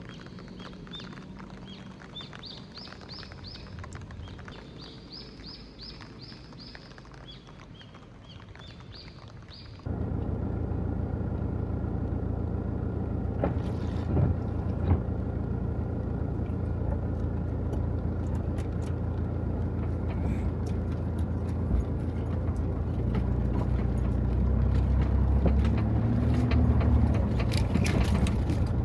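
Small birds chirping in quiet. About ten seconds in, a steady low engine hum starts suddenly, with scattered ticks and clicks over it, and a dove coos near the end.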